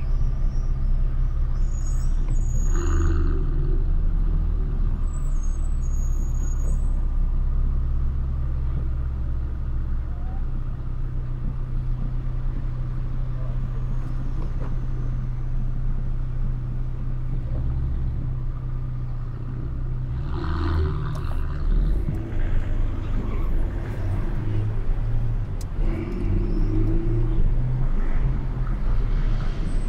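Car engine idling and creeping in slow street traffic: a steady low hum that shifts in pitch a few times, with brief louder noises about 3 s and 21 s in.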